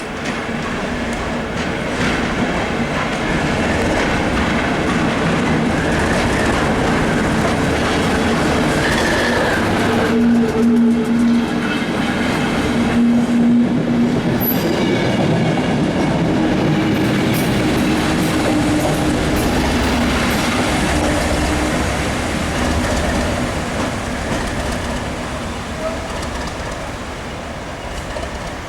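NIR 80 Class diesel-electric multiple unit running along the line, its English Electric diesel engine droning over the noise of the wheels on the rails. It grows louder over the first few seconds, stays loud for about twenty seconds, then fades.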